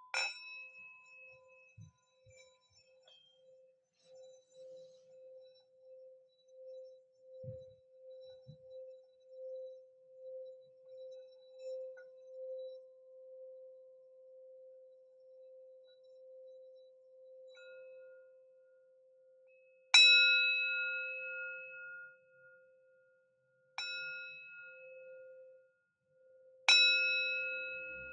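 Singing bowls: a strike at the start, then a long low hum with a slow pulsing throb. Later a higher-ringing bowl is struck three times, a few seconds apart, each ring fading away.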